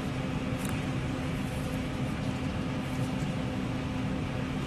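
Electric locomotive-hauled passenger train approaching: a steady rumble with a low, steady hum.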